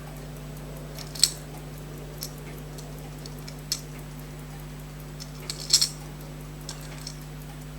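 Small sharp metallic clicks and taps of tweezers and tiny watch parts being picked through in a small box of parts: a few scattered clicks, the loudest about a second in and a quick cluster near six seconds. A steady low electrical hum runs underneath.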